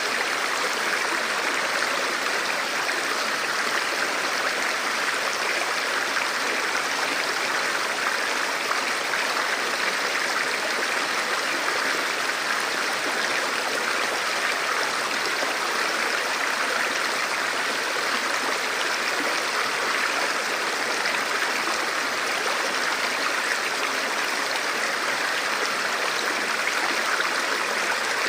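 Forest stream or small river flowing steadily over rocks, a continuous rushing and babbling of water.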